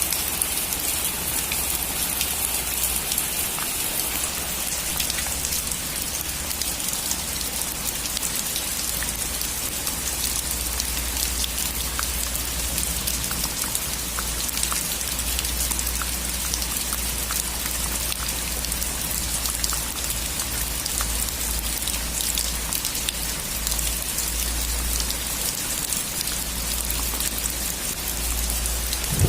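Steady rain falling on a roof: an even hiss with many individual drops ticking.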